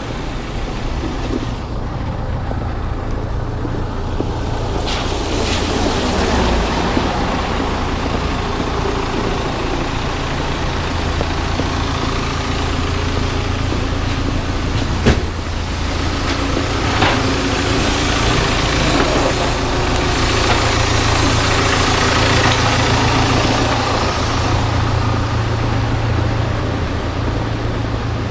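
Road traffic passing on a wet street: a steady low engine rumble from heavy vehicles under a wash of tyre hiss, with a single sharp knock about halfway through.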